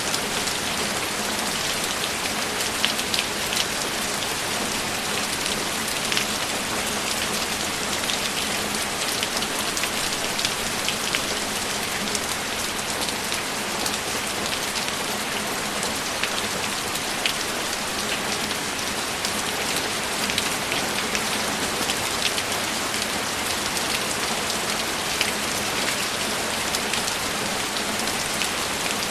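Steady rain falling: an even, dense hiss with individual drops standing out now and then.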